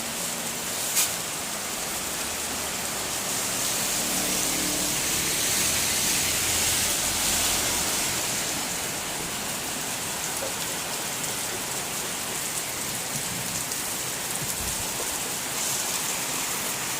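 Heavy rain pouring steadily, a noisy hiss that swells a little from about four seconds in and eases again after about eight, with one sharp tick about a second in.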